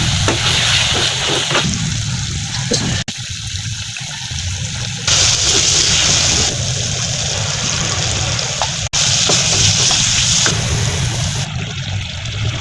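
Food sizzling in a karahi: a steady frying hiss that jumps in level at two sudden breaks, about three and nine seconds in.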